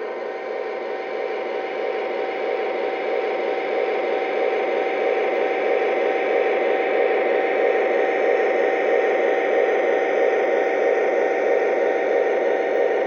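Lionel TMCC SD70 model diesel locomotive running: a steady whirring, hissy rumble that grows louder over the first few seconds and then holds.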